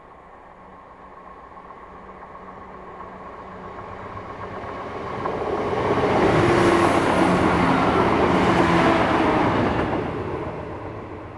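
A CrossCountry Voyager diesel multiple unit approaching and passing close by: its underfloor engines and wheels on the rails build up steadily, are loudest for about four seconds from six seconds in, then fade quickly as it goes by.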